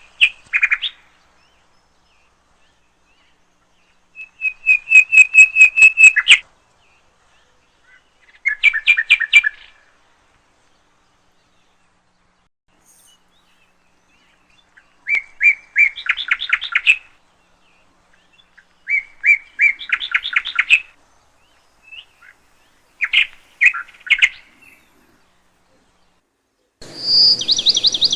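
A small bird singing: short phrases of rapid high chirps and trills, each a second or two long, with pauses between them. Near the end a louder burst of chirping comes in over a background hiss.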